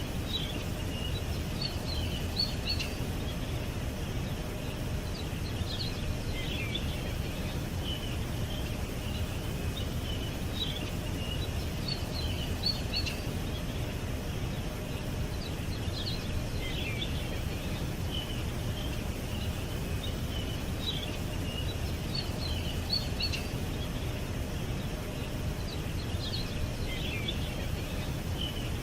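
Small songbirds chirping and twittering in short high clusters every few seconds, over a steady low rumble of background noise.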